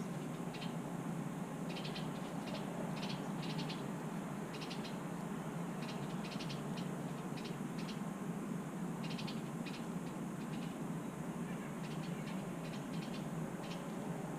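Small birds giving short, rapid rattling calls in repeated bursts, over a steady low background hum.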